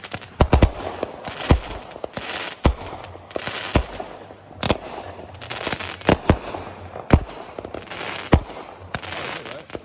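Aerial fireworks going off in a display: sharp bangs about once a second, most followed by a high hissing tail.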